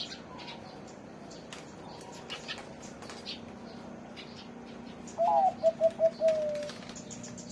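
A zebra dove of the middle-voice contest class coos once, about five seconds in: a lilting opening, a quick run of four short notes, then a longer note that falls away. Small birds chirp faintly in the background.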